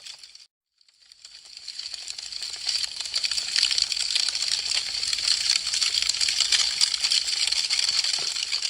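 Wood fire crackling, a dense stream of small sharp pops and snaps. Less than a second in it cuts to silence, then fades back in and builds over the next two seconds.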